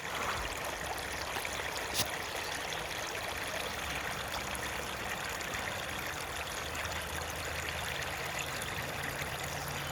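Steady running water of a stream, with one short click about two seconds in.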